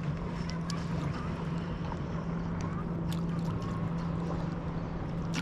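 Small waves lapping and ticking against a kayak's hull, with scattered light splashes over a steady low hum.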